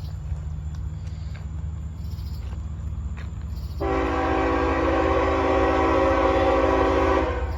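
CSX diesel locomotive's air horn sounding one long blast of about three and a half seconds, starting about four seconds in, over a steady low rumble.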